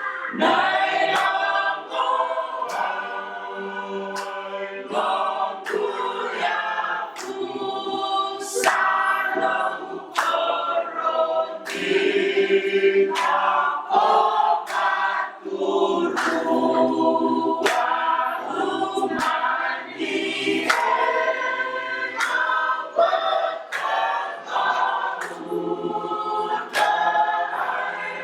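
A group of voices singing together in harmony, choir-like, with short sharp knocks or claps now and then.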